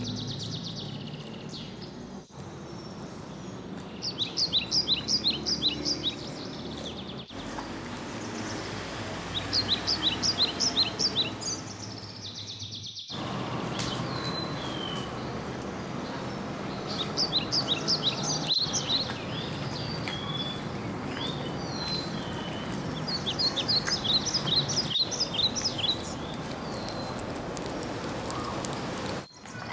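A songbird singing short, fast runs of high chirping notes, about four times several seconds apart, over steady outdoor background noise.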